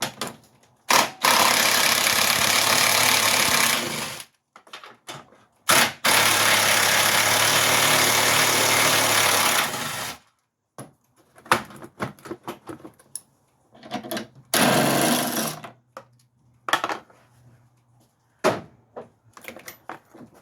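Power wrench running in two long bursts of about three and four seconds, then a shorter one, backing out the 13 mm bolts that hold the battery tray, with clicks and knocks of the socket and bolts between runs.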